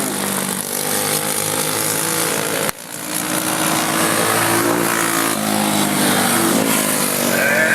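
Several race car engines running together during a heat race, their notes shifting slightly in pitch. The sound dips sharply and briefly about three seconds in.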